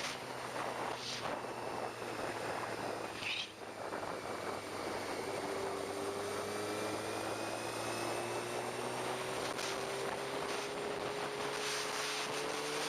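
Motorcycle engine running at motorway speed under heavy wind rush. The engine note dips briefly about three seconds in, then climbs slowly and steadily as the bike accelerates.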